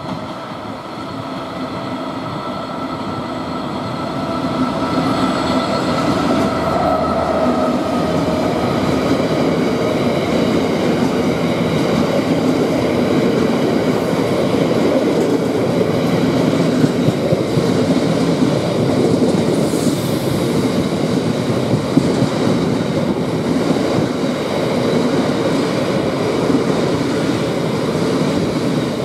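Class 66 diesel locomotive with its EMD two-stroke V12 engine, growing louder as it approaches and passes, its engine note dying away about eight seconds in. Then the steady rumble of loaded stone hopper wagons rolling by, with occasional sharp knocks.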